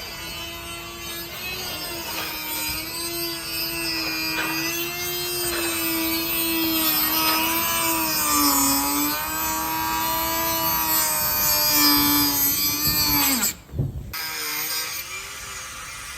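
Power tool running and cutting, a steady whine whose pitch wavers and dips as it is loaded, with a hiss of cutting noise. It stops abruptly near the end.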